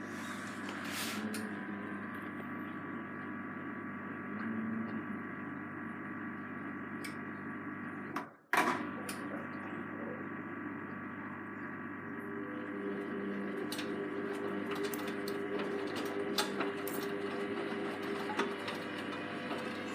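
Hoover Vision Tech washing machine running its mixed 40 °C wash, a steady motor hum with several steady tones. There is a brief break and a sharp click about eight seconds in. A higher motor tone comes in about twelve seconds in, with a few light clicks.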